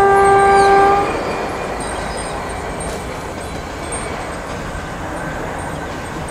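Indian Railways electric locomotive's horn, one steady blast that cuts off about a second in, followed by the steady rumble of the train approaching at speed.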